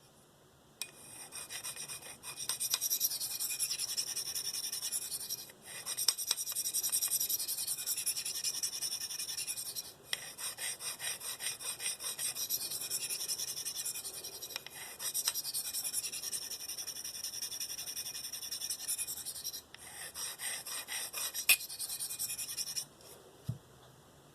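S30V steel knife blade being stroked rapidly back and forth on a Spyderco 302M medium ceramic bench stone, a fast rhythmic hissing scrape. The strokes pause briefly three times, and a sharp click comes near the end.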